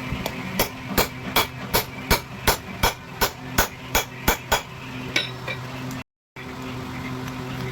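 Hammer blows driving an exhaust valve guide in a cylinder head: about a dozen even, sharp metal strikes, roughly three a second, that then stop. A steady low machine hum runs underneath.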